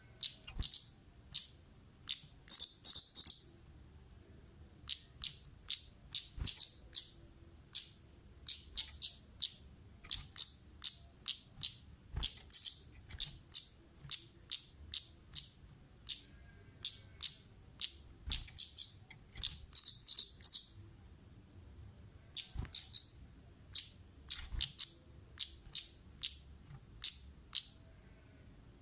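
Orange-headed thrush (kemade) calling with sharp, high 'cit' chirps in quick runs of several notes. The calls pause briefly about four seconds in and again past the twenty-second mark. This is the excited call used as a lure (pancingan) to set other birds calling.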